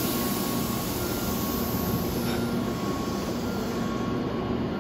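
Tobu 8000 series electric train pulling out of a station platform: a steady low rumble with a faint even hum.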